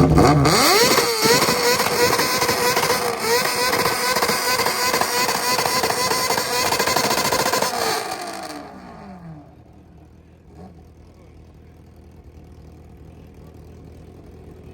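A high-performance car engine is revved sharply at the start and held at a steady high rpm on a two-step limiter for about eight seconds. It is then let off, with the engine note falling away.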